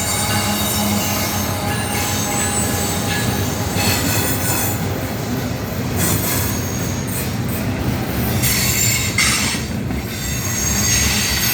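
Long freight train rolling slowly past, its steel wheels squealing thinly on the rails over a steady low rumble.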